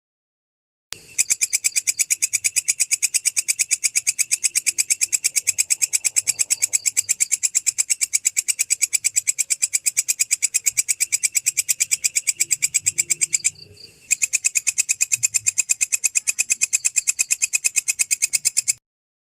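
Belalang kecek katydid calling: a fast, even train of sharp, raspy chirps, about ten a second. It breaks off briefly about three-quarters of the way through, then resumes.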